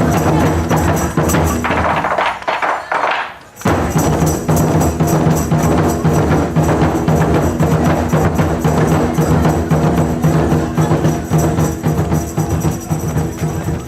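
Live drumming with rapid clacking strikes like a wood block. It breaks off briefly about two and a half seconds in, then comes back suddenly and carries on.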